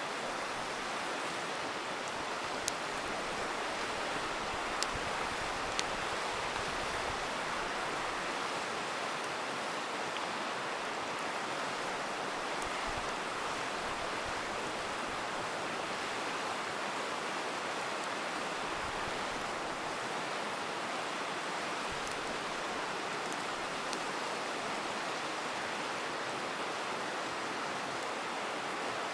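Steady rushing of a river, with the sharp pops and crackles of a wood campfire breaking through now and then.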